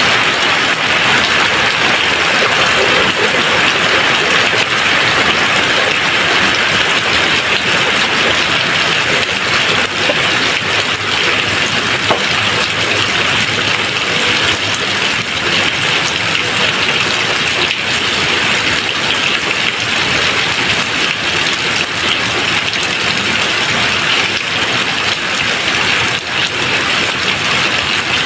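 Steady heavy rain falling, an even dense hiss without thunder.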